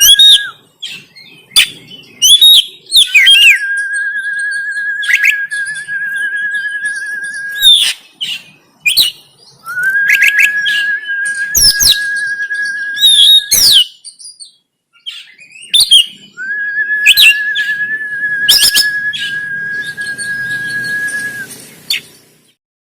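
Oriental magpie-robin (kacer) singing: long, steady whistled notes held about four seconds each, four times over, broken up by sharp chirps and quick high notes between them. The song stops near the end.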